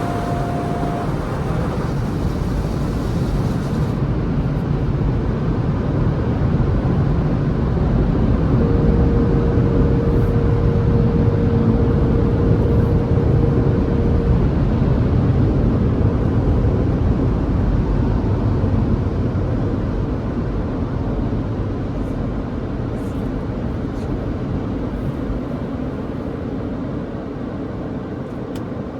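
Automatic car wash machinery running: a loud, steady rush, with a steady tone about nine seconds in that lasts around six seconds.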